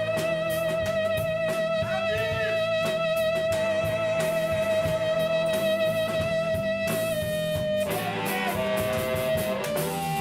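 Live band playing an instrumental break: a lead instrument holds one long note with vibrato for about seven seconds, then plays a short run of notes, over a strummed guitar rhythm.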